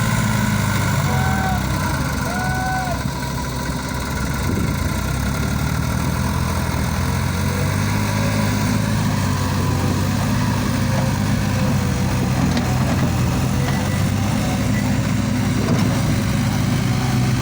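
New Holland 3630 Super Plus tractor's diesel engine running steadily with a deep, even hum. A few short high chirps come in the first three seconds.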